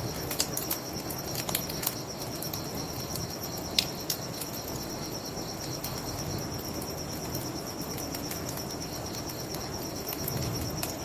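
Bonfire crackling, with sharp pops several times in the first four seconds, over a low steady rush. Crickets trill steadily throughout.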